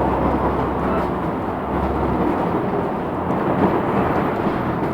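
LiAZ 6213 articulated city bus under way, heard from inside the cabin: steady engine and road rumble, with the low engine drone easing off a little over two seconds in.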